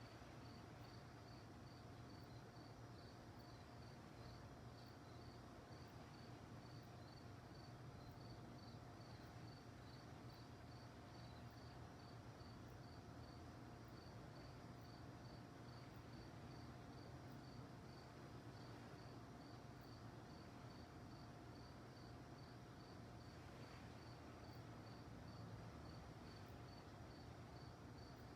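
Faint crickets chirping at night in an even, steady rhythm of about two to three chirps a second, over a low steady background hum.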